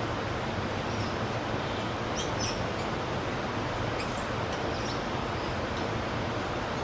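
A few faint, short, high bird chirps over a steady background hiss.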